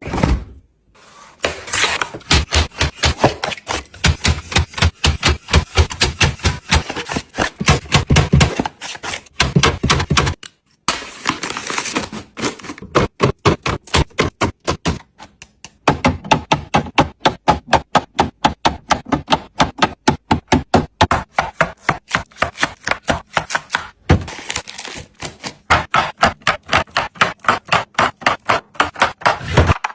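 Rapid runs of sharp taps and clacks, several a second, broken by short pauses: food containers and packages being set down and arranged on fridge shelves and in plastic bins.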